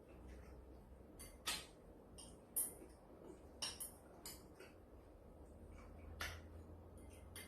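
Kitchen utensils clinking and tapping against dishes, faintly: a handful of short, sharp strikes spread over several seconds.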